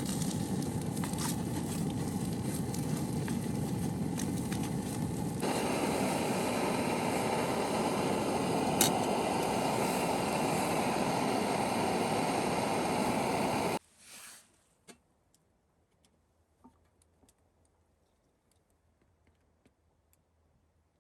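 Strong wind blowing in a steady rush, with a sharp click about nine seconds in; at about fourteen seconds it cuts off abruptly to near quiet with a few faint clicks.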